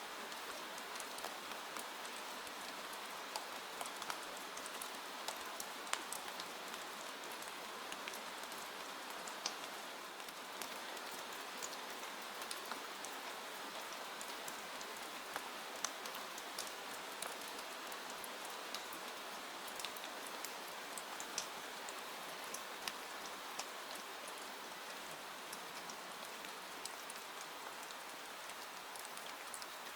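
Steady rain falling, an even hiss with many scattered sharp clicks and ticks throughout.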